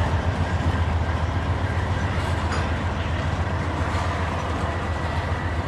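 Freight train rolling past, a steady low rumble of its cars and wheels on the rails that eases off slightly toward the end.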